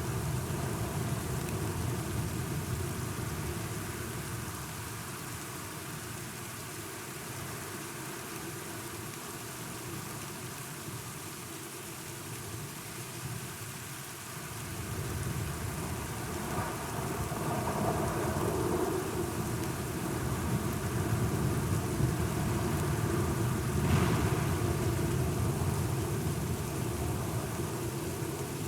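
Steady rain with a low rolling rumble of thunder that swells about halfway through, then a sharp thunder crack near the end.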